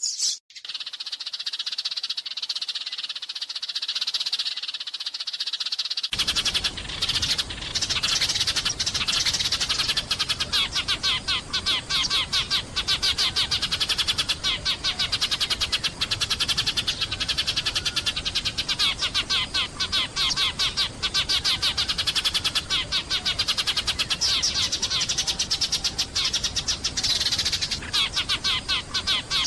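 Sparrows chirping in a dense, continuous chatter of rapid overlapping chirps. A low background hiss comes in abruptly about six seconds in.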